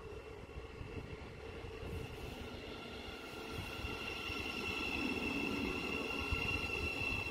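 Great Northern Class 717 electric multiple unit running slowly alongside the platform: a low rumble with a steady high-pitched whine over it, getting louder as the train comes close.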